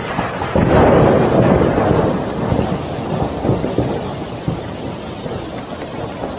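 A roll of thunder over steady rain: the rumble starts suddenly, is loudest about a second in, then slowly rolls away.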